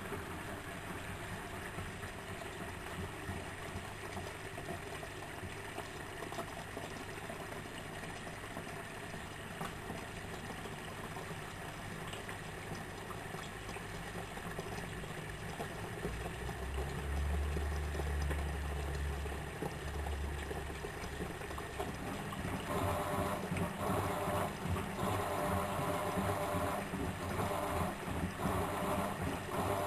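Miele W763 washing machine running a cycle: water gurgling and trickling inside it. A low hum sounds for a few seconds past the middle, and in the last quarter a pulsing motor sound repeats as the drum works.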